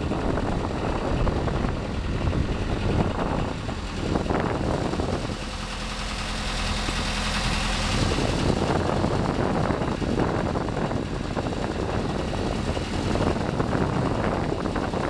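Engine of a small motor launch running steadily while under way.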